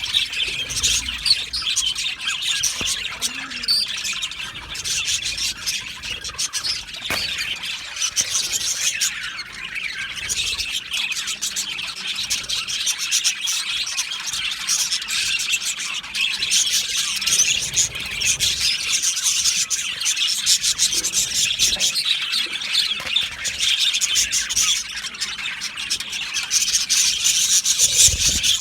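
A colony of budgerigars chattering and chirping all at once: a dense, continuous high-pitched twittering of many birds with no pauses.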